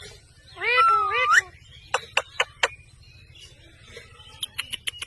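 A parrot gives one loud, drawn-out call that wavers and rises in pitch at its end, followed by three sharp clicks and, near the end, a quick run of short high ticks.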